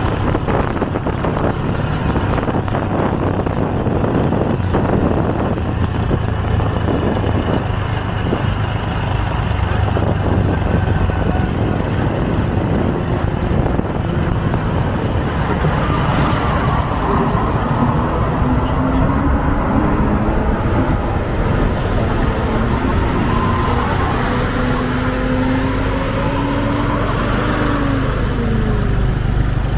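Motorcycle taxi riding through city traffic, heard from the pillion: the engine runs under a steady rush of wind and road noise. In the second half the engine pitch climbs slowly as it accelerates, then drops near the end as it eases off.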